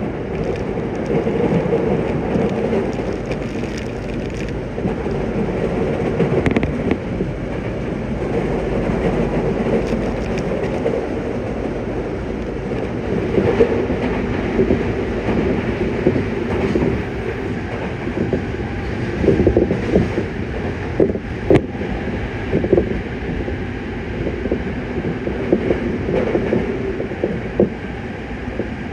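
Yokohama Municipal Subway Blue Line 3000N train running at speed, heard from inside the car: a steady rumble of wheels on rail with scattered clicks from rail joints, more of them around two-thirds of the way through.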